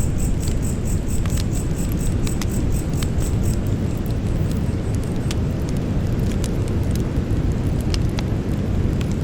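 Campfire burning: scattered sharp crackles and pops of burning wood over a steady low rumble. An insect's rapid, high-pitched pulsing fades out about three and a half seconds in.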